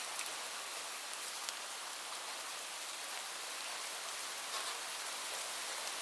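Steady rain falling, an even hiss with a few distinct drops ticking close by.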